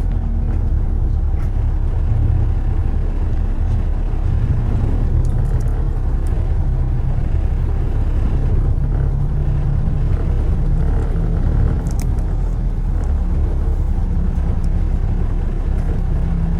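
Steady low rumble of road traffic, the road noise of vehicles moving along a city street.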